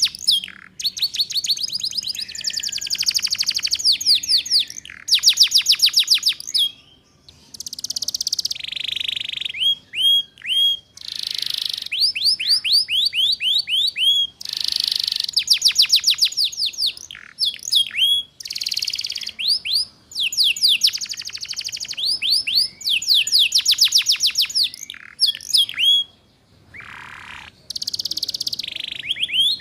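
Domestic canary singing a long, fast twittering 'ngeriwik' song: rapid trills of quickly repeated falling notes, alternating with short rising chirps and a few buzzy notes, with only brief pauses. It is a master song played for young canaries to learn from.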